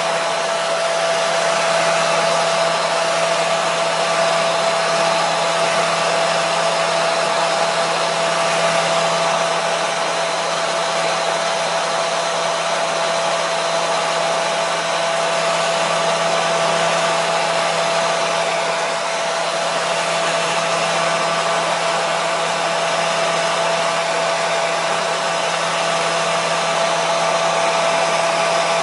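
Hair dryer running steadily, a constant rush of air with a fixed motor hum.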